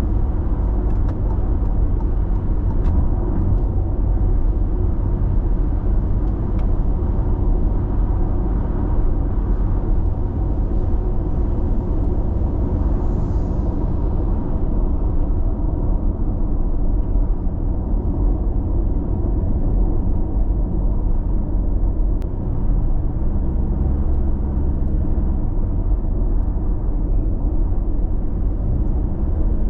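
Steady road noise of a car cruising at constant speed on an expressway, heard from inside the cabin: a continuous low tyre and engine rumble with no changes in speed.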